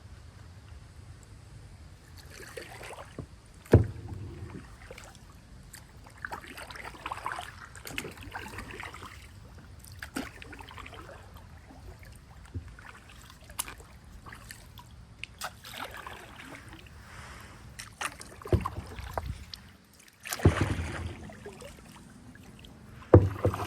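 Kayak paddle strokes swishing and dripping in the water, in irregular spells of a second or two, with a few sharp knocks, the loudest about four seconds in and near the end.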